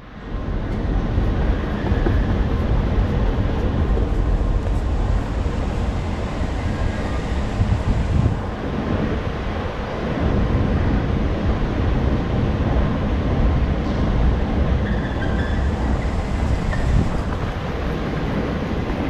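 Underground metro train running: a steady low rumble with rattling noise, easing off briefly near the middle before building again.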